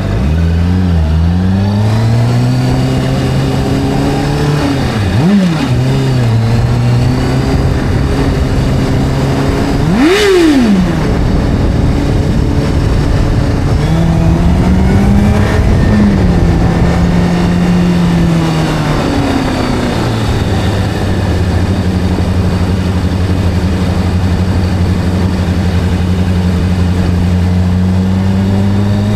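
Motorcycle engine running under changing throttle, its pitch climbing and dropping through the gears, with two quick sharp revs about five and ten seconds in. From about twenty seconds in it settles to a steady low, even note.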